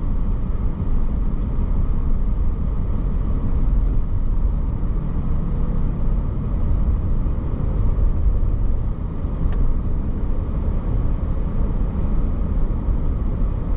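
A car driving steadily along a road, its tyre and engine noise a low, even sound that does not change.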